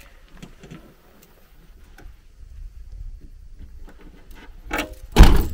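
Faint rustling and steps, then a smaller knock followed by a sudden loud bang near the end.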